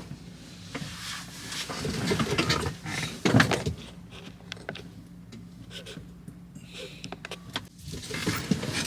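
Inside a semi truck's cab: the engine hums steadily under scattered clicks and rattles, with a louder rush of noise about three seconds in.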